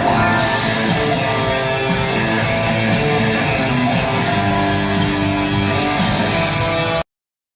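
Live rock music with a symphony orchestra, with strummed guitar prominent. The music cuts off suddenly near the end.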